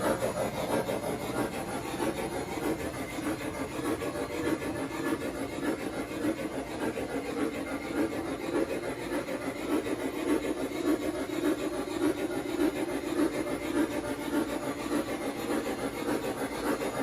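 MTH Dreyfuss Hudson O-gauge model steam locomotive's electronic steam chuff running steadily. It plays through a speaker mounted in a home-built balsa-wood enclosure, which gives it a deep bass note without rattle or vibration.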